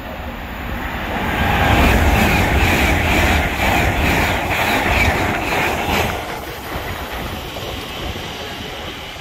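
Electric trains on the line: a train goes by with its wheels clattering over rail joints. The clatter builds, is loudest for about four seconds, then falls away sharply about six seconds in. An Elizabeth line Class 345 unit runs quieter alongside the platform after that.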